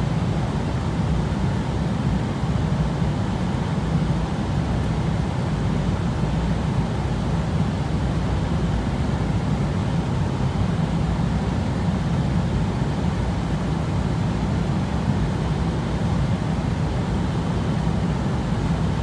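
Steady, unchanging low rumble of an airliner cabin in flight: the engine and air noise heard from inside the plane.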